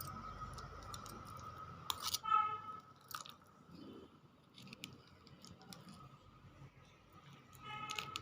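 Chewing and wet, sticky mouth sounds of someone eating wood apple pulp mixed with jaggery, with scattered clicks. A faint steady tone hums underneath, and two short pitched sounds come about two seconds in and near the end.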